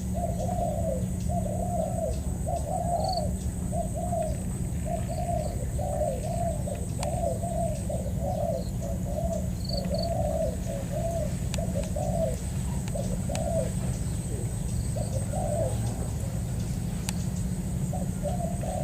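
Spotted doves cooing in long runs of repeated phrases, with short pauses in the second half, over a steady low hum and a few short high chirps.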